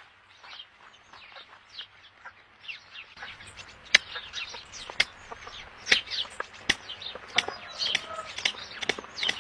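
Birds chirping: a run of short, falling chirps that grows louder and busier about three seconds in, with several sharp clicks mixed in.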